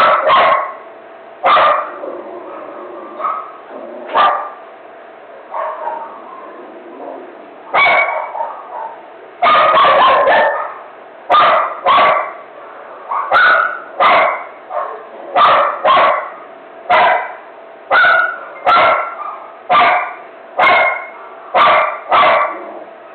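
A dog barking over and over in a frenzy: scattered barks at first, then a dense run of barks near the middle, followed by a steady string of about one bark a second.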